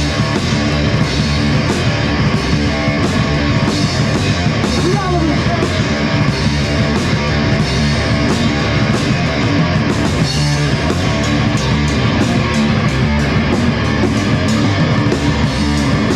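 Loud rock music played by a band on guitar and drum kit.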